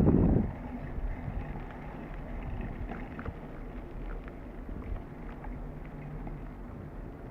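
Bicycle rolling along a dirt trail: a steady low rumble of tyres and wind on the microphone, with a few faint clicks and rattles. A brief loud burst of noise opens it.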